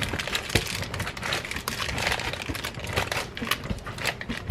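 A block of extra sharp cheddar cheese being grated by hand on a grater: short, irregular scraping strokes, about two a second.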